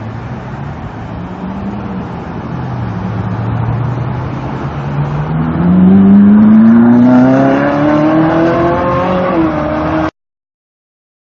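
Car engine accelerating, its pitch climbing steadily for several seconds and growing louder before the sound cuts off suddenly near the end.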